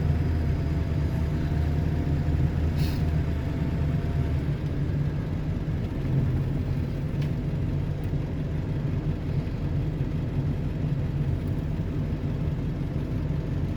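Ford F-350 pickup heard from inside the cab while driving: a steady low engine and road rumble, with one brief click about three seconds in.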